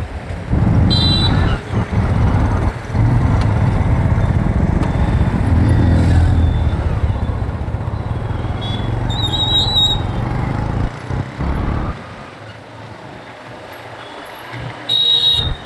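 Motorcycle riding through city traffic: a heavy low rumble of engine, road and wind noise that drops off sharply about twelve seconds in. Short high squeals come through about a second in, again around nine to ten seconds, and near the end.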